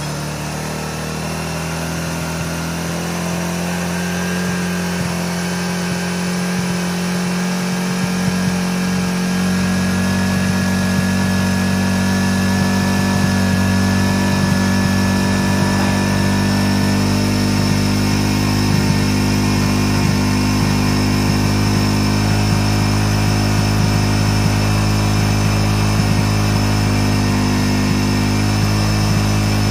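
Suzuki Raider 150's single-cylinder engine running steadily, heating a new titanium exhaust header until it turns blue, with the muffler outlet plugged. It grows gradually louder over the first ten seconds or so, then holds steady.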